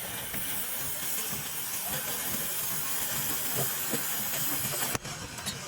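Steady high hiss of compressed air from a workshop air tool, cutting off suddenly about five seconds in.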